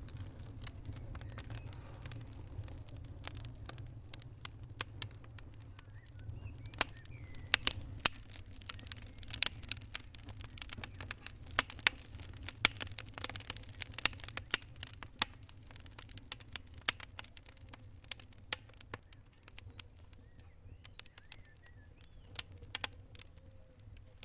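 Wood fire crackling, with irregular sharp pops and snaps that come thickest in the middle, over a steady low rumble.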